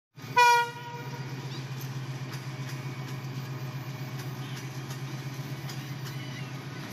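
A short, loud horn blast of about half a second from a Bangladesh Railway diesel locomotive hauling a relief train, followed by the locomotive's engine running with a steady low rumble.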